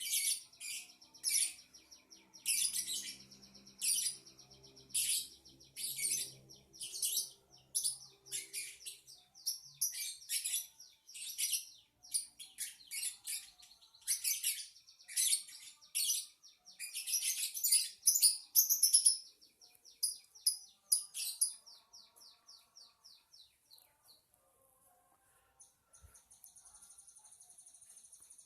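Lovebird chirping in rapid, high-pitched bursts about once a second, the calls stopping a little after twenty seconds in. Near the end a faint, steady, high buzzing comes in.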